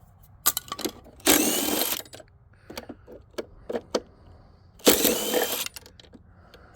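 Power drill spinning a socket in two short runs about three and a half seconds apart, backing out bolts. Small clicks and knocks of metal parts being handled come in between.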